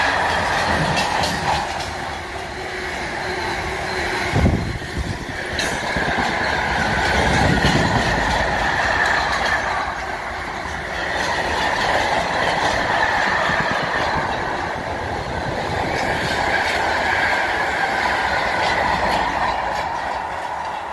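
Freight train of empty container flat wagons rolling past at speed, the wheels clattering over the rail joints with a steady high squeal above. One heavier thump about four and a half seconds in.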